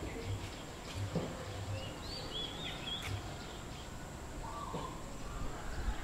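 Wild songbirds calling in a tree: a cluster of short, curving high chirps about two seconds in, and a single lower note near the end, over steady outdoor background noise.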